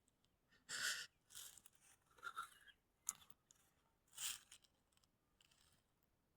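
A few faint, short crunching sounds at irregular intervals.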